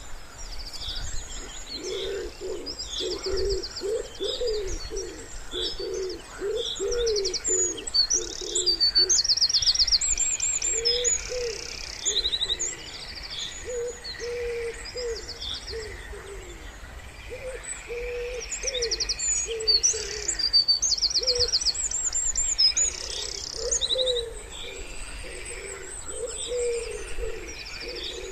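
Wood pigeons cooing in repeated runs of low phrases, with small songbirds chirping and singing quick high trills over them throughout.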